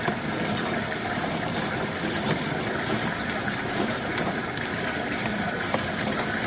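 Steady mechanical running noise with a few faint clicks.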